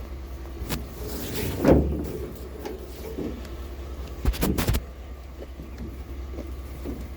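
Knocks and a scraping rustle of scrap items and rope being handled while a load is tied down, with a quick clatter of sharp knocks about four and a half seconds in, over a steady low rumble.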